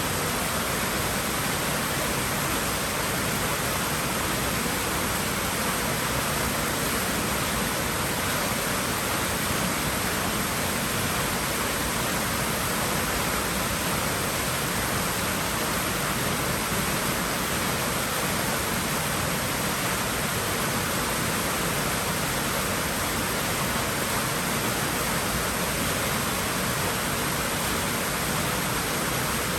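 Steady rush of moving water at a swimming pool: an even, unchanging hiss.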